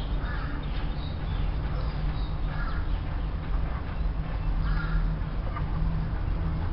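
A bird calling repeatedly, one short call about every two seconds, over a steady low rumble.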